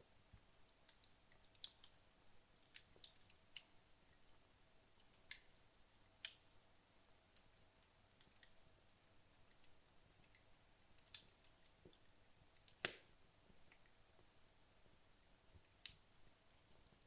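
Wood logs burning in a fireplace, giving off sparse, irregular crackles and pops over a faint hiss. The loudest pop comes about 13 seconds in.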